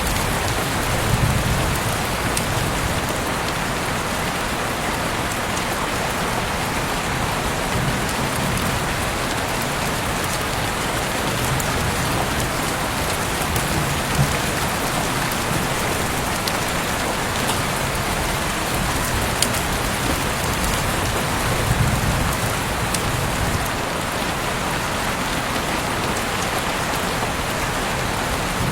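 Steady heavy rain falling, an even hiss with scattered sharp drop ticks and a few soft low swells.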